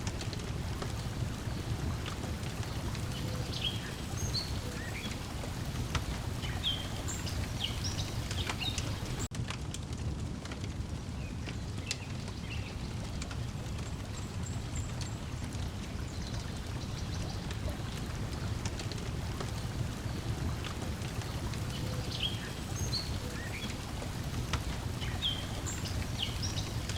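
Layered lakeside ambience: water lapping steadily at a shore, with small birds chirping in short runs near the start and again near the end, and scattered pops of a crackling wood fire.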